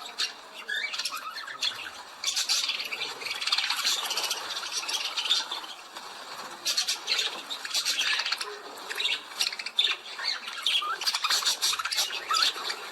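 Birds squawking and chattering: many short, harsh calls in quick, irregular bursts that overlap, with brief lulls.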